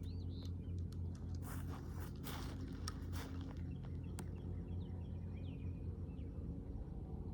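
Faint bird chirps over a steady low hum, with a few brief clicks and rustles between about one and a half and three seconds in.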